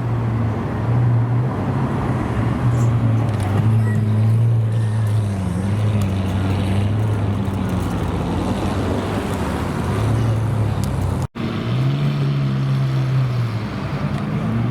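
Supercar engine idling with a deep, steady hum whose pitch wavers slightly. The sound cuts out for an instant about eleven seconds in, then resumes.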